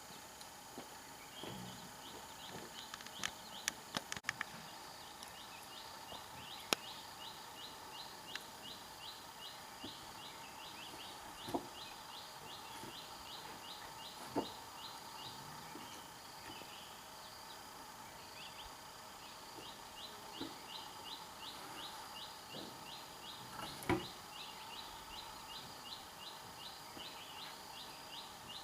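A bird repeating a fast series of high chirps, about five a second, in two long runs, over steady outdoor background noise. Occasional sharp knocks and clicks sound in between, the loudest about a quarter of the way in and near the end.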